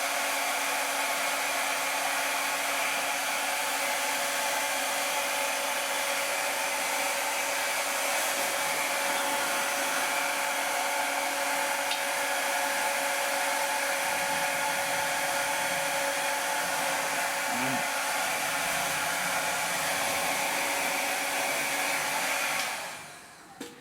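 Handheld hot-air blower running steadily with a constant whine, used to soften the vinyl wheel sticker as it is worked into place; it switches off shortly before the end.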